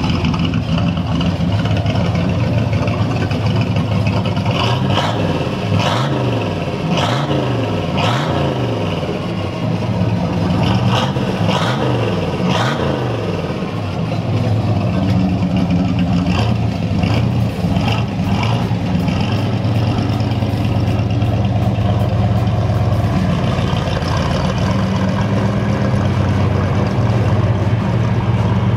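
1967 Corvette Stingray's L79 327 cubic-inch V8 through dual side-pipe exhaust: it is revved up and down several times in quick succession, then settles into steady low-speed running as the car pulls away.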